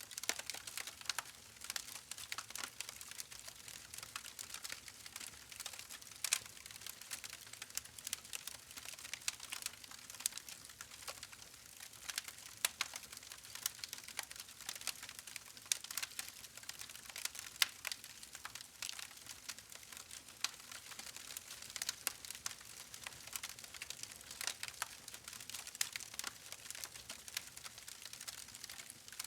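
Campfire crackling: burning wood giving off a dense, irregular run of sharp pops and snaps over a light hiss.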